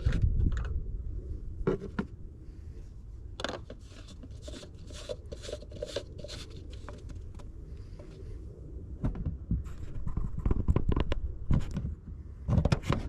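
Clicks, taps and short scrapes of plastic being handled as an oil funnel is set into the engine's oil filler neck and the oil jug is readied, in irregular clusters with a bigger bunch of knocks near the end.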